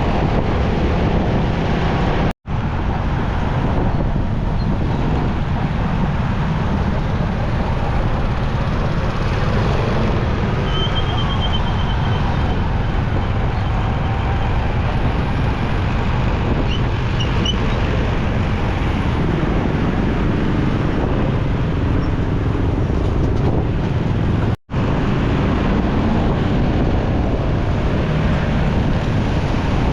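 Riding a motorcycle in traffic: a steady rush of wind on the microphone mixed with engine and road traffic noise. The sound drops out abruptly for a split second twice, once early and once near the end.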